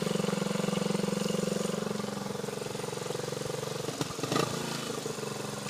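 1977 Honda CT90 Trail's small single-cylinder four-stroke engine idling steadily, with a couple of brief clicks about four seconds in.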